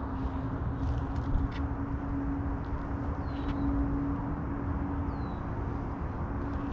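Outdoor background of a steady low hum over a rumbling noise, with a couple of faint short high chirps.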